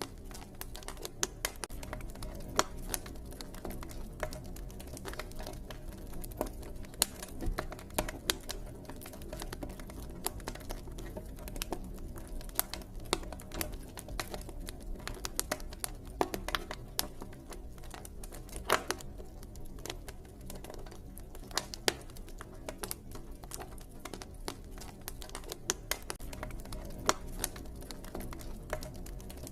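Campfire crackling: irregular sharp pops and snaps from burning wood, several a second, over a low steady rumble of the flames.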